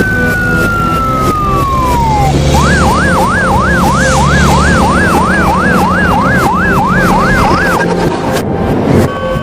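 Electronic siren: a long wail slides down in pitch and dies away, then a fast yelping siren sweeps up and down about three times a second for about five seconds. Background music plays throughout.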